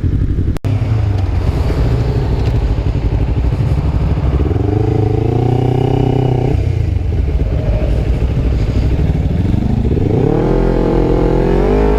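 Motorcycle engine running under way, with heavy wind rush on a helmet-mounted microphone. The engine climbs in pitch as it accelerates, about four seconds in and again near the end.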